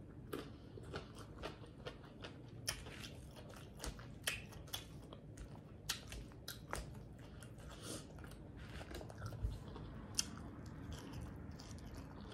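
Close-up chewing and mouth smacking while eating Caesar salad, with irregular crunches and wet clicks as mouthfuls are bitten and chewed.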